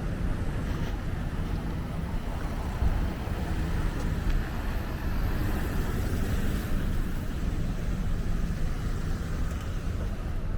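Street traffic: a motor vehicle's engine running close by, a steady low rumble, with a louder passing vehicle fading away at the start.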